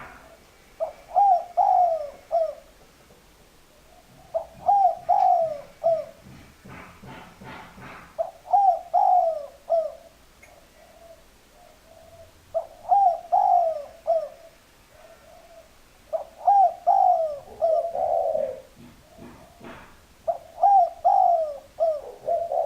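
Spotted dove cooing: the same short phrase of a few falling coos, repeated about every four seconds, six times over. A short burst of rapid taps comes about seven seconds in.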